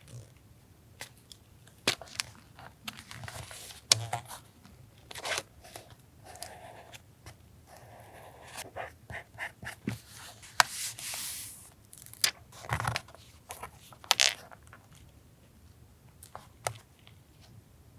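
Paper and stickers being handled for a collage journal page: rustling and swishing paper with scattered light clicks and taps, and a longer paper swish about ten seconds in.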